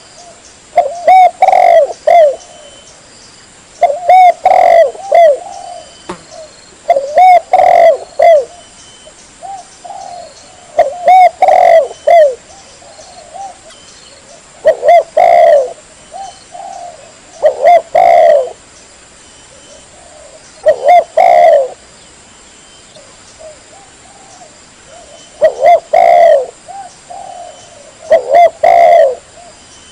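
Spotted dove (tekukur) cooing: a loud, clear phrase of several coos repeated about every three to four seconds, nine times, with softer coos in between. A faint steady high tone runs underneath.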